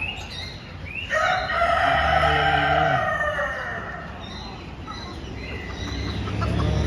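Rooster crowing: one long crow starting about a second in, and a second crow beginning near the end.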